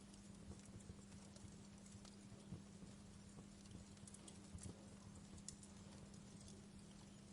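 Wood fire crackling faintly, with sparse small pops and a few soft low knocks over a steady low hum.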